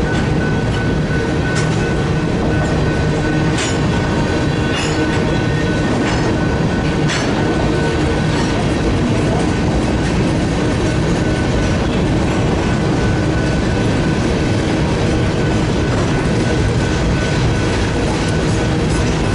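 Freight cars of a grain train rolling steadily past: a continuous rumble of steel wheels on rail with occasional sharp clicks over rail joints, and a thin steady high squeal that fades out about halfway through.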